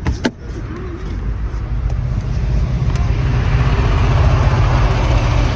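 A train running into or through the station, its low rumble and wheel-and-rail noise growing steadily louder, with a brief sharp knock near the start.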